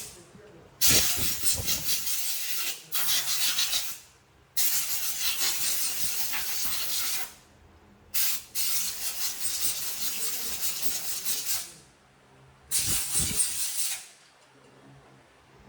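High-pressure jet hissing in about six bursts of up to three seconds, with short pauses between, as a motorcycle is cleaned during its service. A faint low hum runs underneath.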